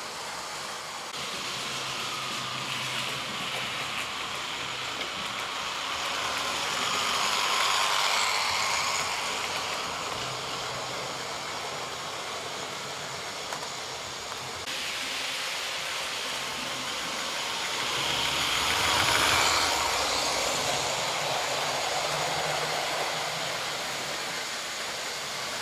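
Trix 00 gauge model Gresley A4 locomotive running at speed on model railway track, a steady whirr of motor and wheels. It swells twice as the engine comes close on each lap, about eleven seconds apart.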